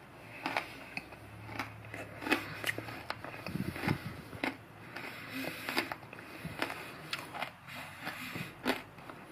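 Someone chewing a bite of homemade chocolate-coated honeycomb toffee: the brittle, aerated honeycomb gives off irregular sharp crunches and crackles, several a second.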